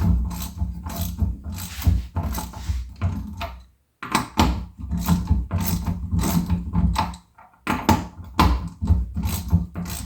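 A ratchet clicking in quick repeated strokes while a strut assembly is drawn together and fastened, over a low steady hum; the clicking breaks off briefly twice.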